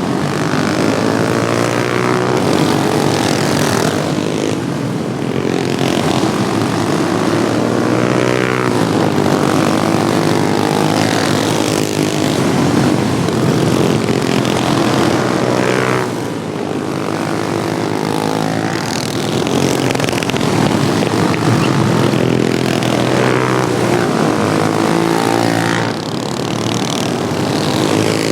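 Engines of several modified Wheel Horse racing lawnmowers running together on track. Their pitch rises and falls again and again as they rev through the turns and pass.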